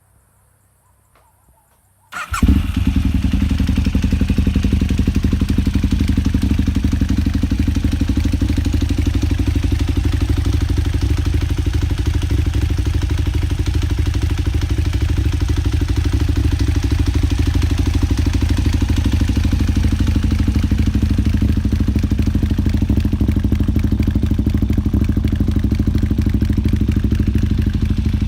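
KTM SMR 990's V-twin engine, breathing through an Akrapovič exhaust, starting up abruptly about two seconds in and then running steadily at idle.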